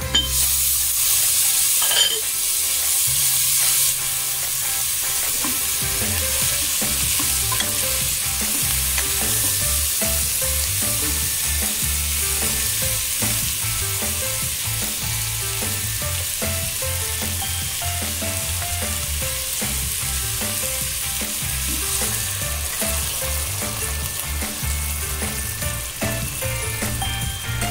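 Fish pieces and chopped onions sizzling as they fry in a pan and are stirred with a spatula. The hiss is heaviest in the first few seconds, with a single knock about two seconds in.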